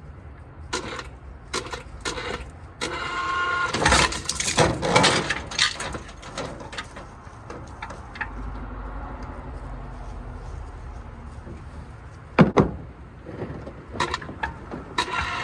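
Clanks, rattles and knocks from working to pull an engine off a truck, with a short squeaking stretch about three to four seconds in and one sharp loud knock near twelve and a half seconds.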